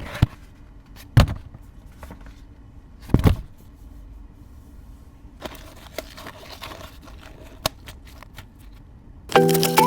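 Packaging handled while a toy box is opened: a few sharp knocks and rustles, then scattered light clicks and crinkles. Music starts near the end.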